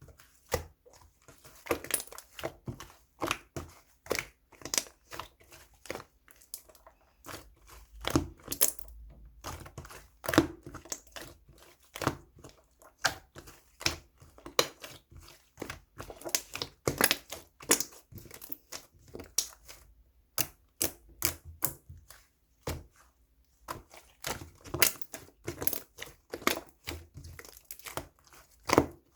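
Rapid, irregular sharp crackles and clicks, like crinkling or crunching, going on in clusters with a short pause about two-thirds of the way through.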